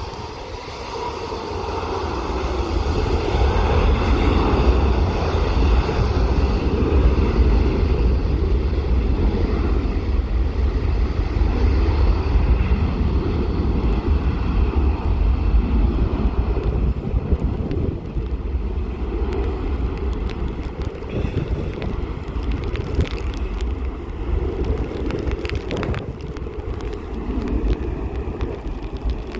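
Jet airliner's engines running at power ahead of take-off, heard at a distance under heavy wind rumble on the microphone. The engine noise builds over the first few seconds and eases after about halfway.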